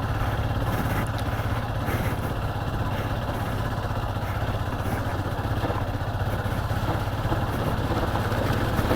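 Motorcycle engine running steadily and evenly at low revs, with no revving or pitch change.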